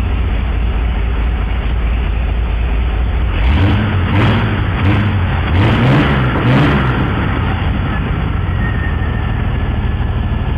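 Chevrolet 262 ci (4.3 L) V6 engine in a Jeep CJ5 running on its first start. It idles, then is revved in a series of quick throttle blips, then settles back to a steady idle.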